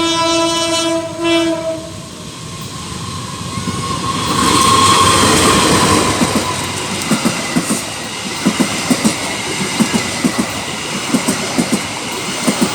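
A train horn sounds a steady chord that cuts off about two seconds in. The train then passes close by, its rushing noise swelling, followed by a rhythmic clatter of wheels over the rail joints.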